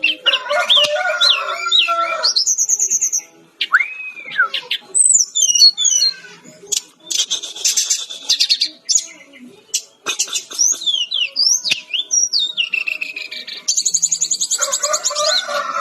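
A sikatan-rimba dada-coklat (fulvous-chested jungle flycatcher) singing a fast, varied song. It mixes gliding whistles, rapid high trills and scratchy chattering phrases, with short pauses about a third of the way through and near the middle.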